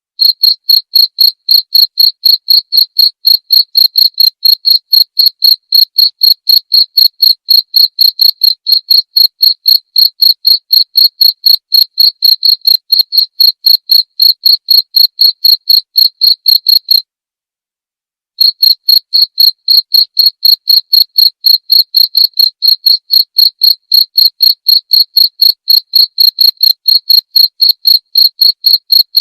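Cricket chirping steadily in a high, evenly spaced rhythm of about four chirps a second. It breaks off for a second and a half partway through, then resumes.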